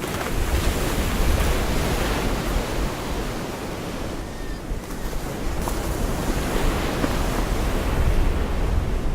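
Gulf of Mexico surf breaking and washing up the beach, swelling about a second in and again near the end, with wind buffeting the microphone as a low rumble.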